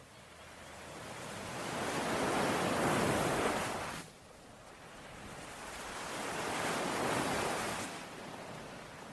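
Ocean waves washing in on the shore twice: the first swell builds for about three seconds and breaks off sharply, the second rises and fades away more gently.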